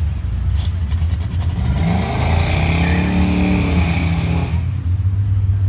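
A V8 car engine revs up about a second and a half in, holds at high revs for about three seconds with a screeching band of noise above it, and drops back, typical of a burnout with the rear tyres spinning. A steady low engine rumble runs underneath throughout.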